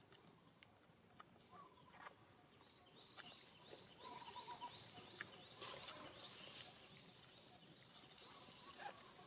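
Faint outdoor ambience with scattered soft clicks and faint bird calls, busiest from about three to seven seconds in.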